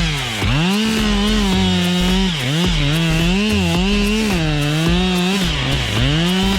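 Two-stroke chainsaw running at high revs. Its pitch dips sharply and climbs back several times as the engine is loaded and let off.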